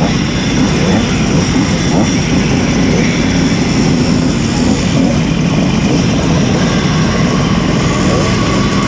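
Simson S51 moped's tuned 90 cc reed-valve two-stroke engine running steadily under a rushing noise, with no clear revving.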